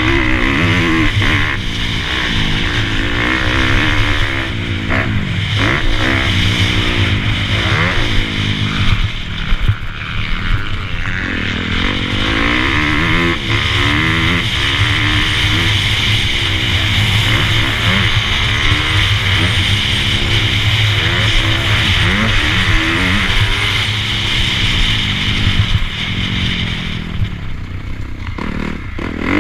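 Motocross dirt bike engine being ridden hard, its revs rising and falling over and over with the throttle.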